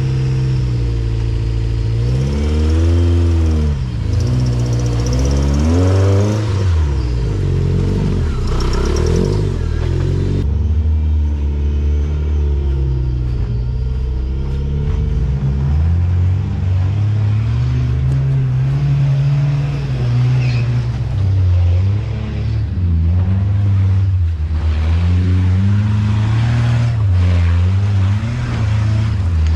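Off-road vehicle engine revving up and down repeatedly, its pitch rising and falling every second or two.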